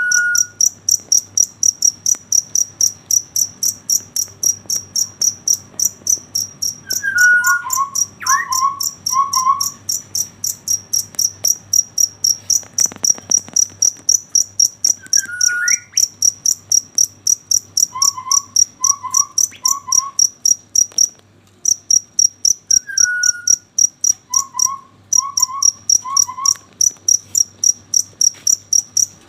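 A cricket chirping steadily at night, a high-pitched chirp about three to four times a second, pausing briefly twice in the later part. Another animal's lower, short calls come in groups of three every few seconds.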